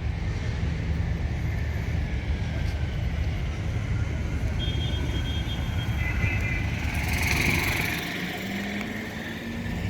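Low, steady rumble of a running vehicle engine. A few brief high tones sound about halfway through, and a short hiss comes a little later.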